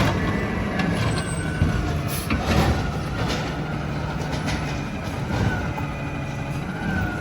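Recycling truck's diesel engine running steadily, with a faint rising and falling whine and a few metallic knocks and clanks.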